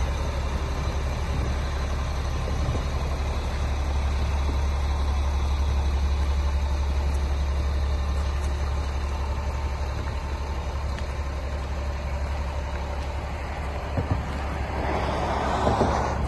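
Garbage truck's diesel engine running steadily with a low rumble, a short knock about fourteen seconds in, and a rising hiss near the end.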